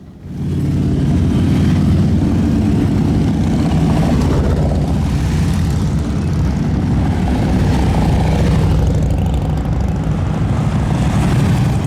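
Loud, steady rumble of several big motorcycle engines running together. It starts abruptly just after the start and cuts off near the end.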